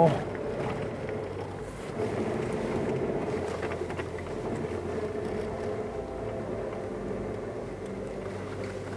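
Suzuki Jimny JB64's 660 cc turbocharged three-cylinder engine running steadily at low speed as the vehicle creeps along a dirt forest track. It gets a little louder about two seconds in.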